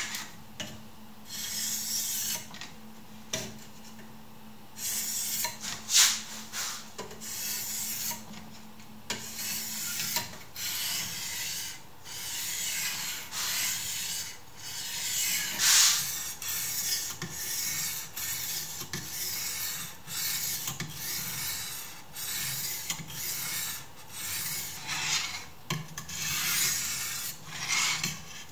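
Knife blade scraped back and forth across a sharpening stone in a sharpening jig: a run of rasping strokes, roughly one a second, with a couple of sharper knocks of the jig along the way.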